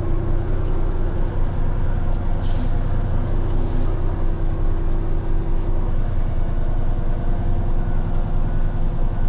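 Heavy diesel engine of a Peterbilt 389X rotator wrecker running steadily at low speed, with two short hisses about two and a half and three and a half seconds in.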